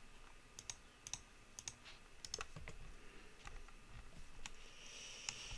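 Faint, scattered clicks of a computer mouse and keyboard, irregularly spaced.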